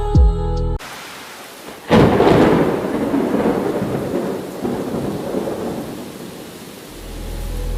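Rain falling steadily with a thunderclap about two seconds in that breaks loudly and fades over several seconds. A low thunder rumble builds again near the end. It opens with a brief tonal, musical sound that cuts off abruptly.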